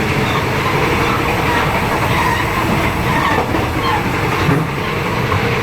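Steady running noise of a moving passenger train heard from inside an air-conditioned carriage: the wheels rumbling on the rails and the coach rattling.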